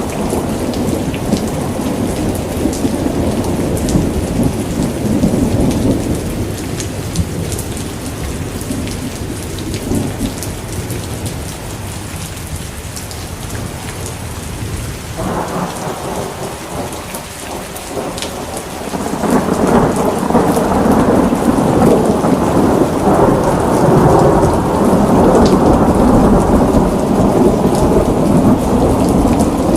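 Rain falling steadily, with a deep rumble of thunder under it. The rumble eases off through the middle and swells back louder about two-thirds of the way through.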